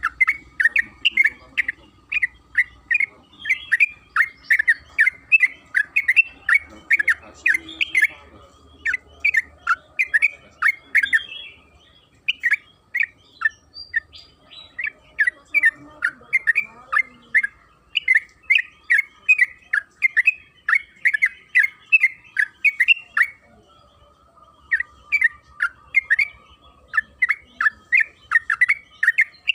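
Sooty-headed bulbul (trucukan) singing a long, fast run of repeated chattering notes, about four a second, with brief pauses about twelve seconds in and again near the end.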